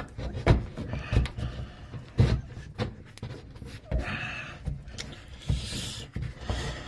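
Handling and work noises: scattered knocks and clunks, with two short spells of scraping or rustling about four and six seconds in.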